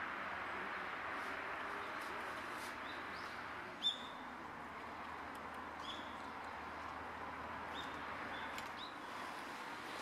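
Small bird giving short, high chirps, about five spread out, one sharper and louder about four seconds in, over a steady background hiss.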